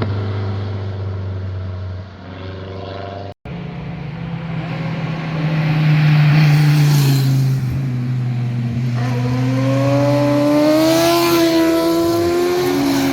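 Cars passing under acceleration, engine notes rising and falling with throttle and gear changes. An abrupt cut about three and a half seconds in, after which another car's engine climbs steadily in pitch.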